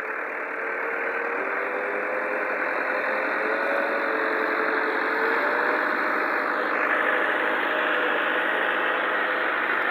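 Tractor engine running steadily, a continuous engine noise that grows slightly louder over the first couple of seconds.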